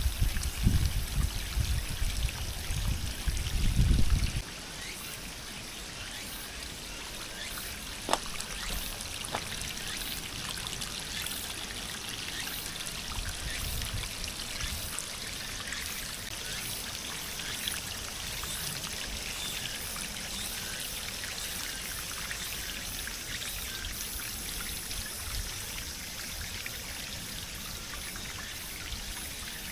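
Storm runoff running steadily, a continuous trickling and pouring of water during heavy rain. A loud low rumble fills the first four seconds.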